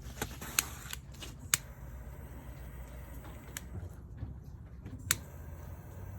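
A few sharp, isolated clicks or pops over a low steady rumble, three standing out: about half a second in, about a second and a half in, and about five seconds in.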